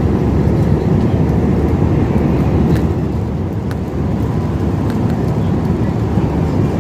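Steady low rumble of a jet airliner's cabin in cruise, from engine and airflow noise, with a few faint ticks about three and four seconds in.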